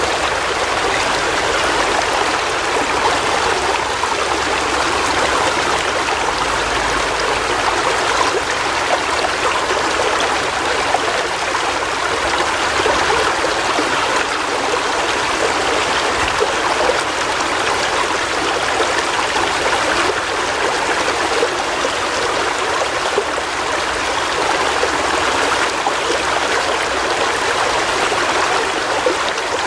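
River water flowing over stones: a steady rushing and burbling with no breaks.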